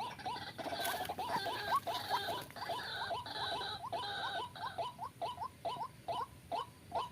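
White-breasted waterhens calling: short, rising notes repeated about three times a second, with longer, harsher notes overlapping them for the first few seconds.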